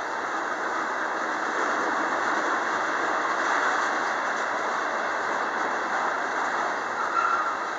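Freight train of tank cars rolling past, a steady noise of wheels on rail, with a short higher tone near the end.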